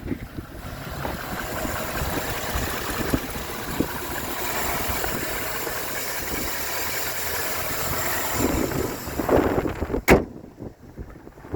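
Pickup truck engine running steadily under an even hiss, broken by a sharp click about ten seconds in, after which the sound drops much quieter.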